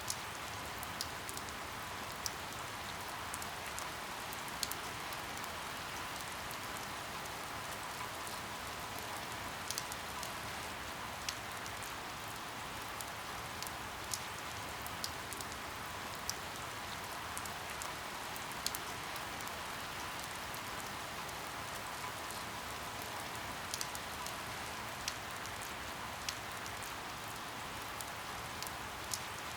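Steady rain falling, an even hiss with scattered sharp drops ticking irregularly on a hard surface.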